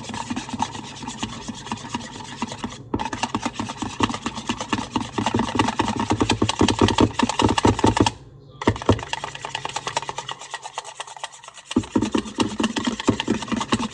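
A whisk beating eggs in a bowl: rapid, even strokes that scrape and click against the bowl, with brief pauses about three and eight seconds in.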